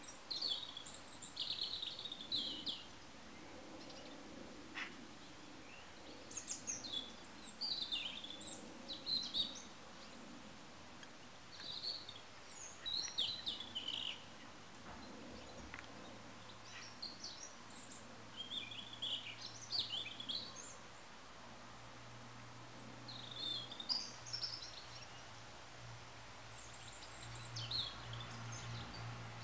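Small birds chirping and singing in short, scattered phrases over a quiet outdoor background. A faint low hum comes in partway through and grows stronger near the end.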